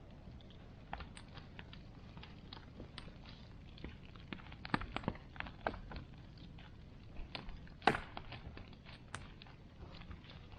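Bonfire crackling: irregular snaps and pops of burning wood over a steady low hiss, with one sharper pop about eight seconds in.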